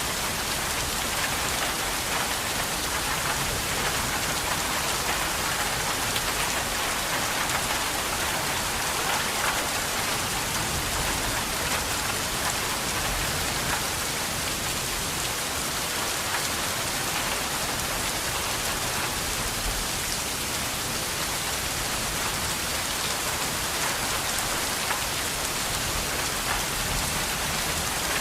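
Steady rain falling, a continuous even hiss with scattered drops pattering on a surface.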